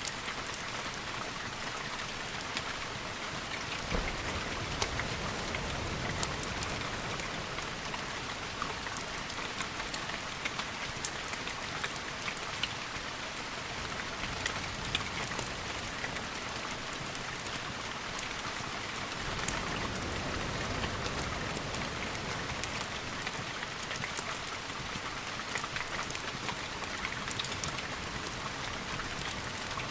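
Steady rain falling, with many sharp scattered drip ticks over it. A low rumble swells up about four seconds in and again around twenty seconds in.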